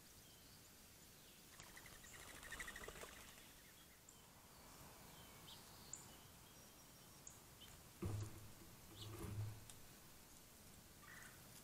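Faint outdoor ambience with songbirds chirping: a rapid, pulsing call about two seconds in and scattered short high chirps after it. Two dull low knocks, the loudest sounds, come in the last third.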